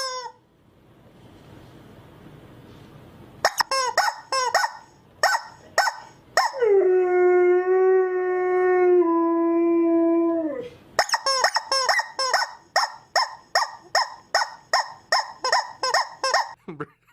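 A dog barking in quick runs, about three barks a second, with one long held howl of about four seconds in the middle that drops a step in pitch partway through.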